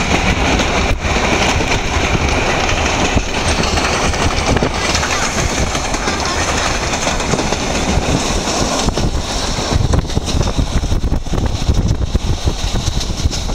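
Train hauled by a Pm36-2 steam locomotive running at speed, heard from a carriage window: a loud, steady rumble and rush of wheels on the track and air, with occasional clatter.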